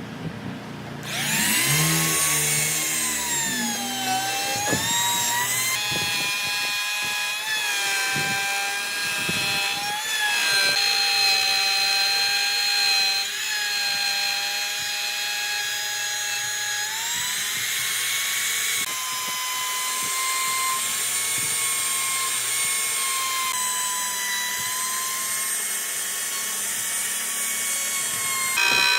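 Electric power tool whining as it cuts or shapes wood. The pitch sags and recovers as the load changes, with a sudden start about a second in.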